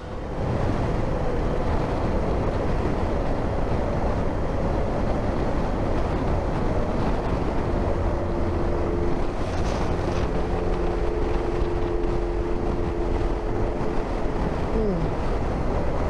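Wind rushing over the microphone while riding a Yamaha motorcycle, with a faint steady engine tone under it from about halfway that drops in pitch near the end.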